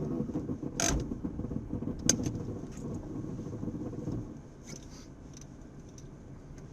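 A car's engine and road noise heard from inside the cabin, with a few sharp clicks and knocks, the loudest about two seconds in. The noise drops after about four seconds.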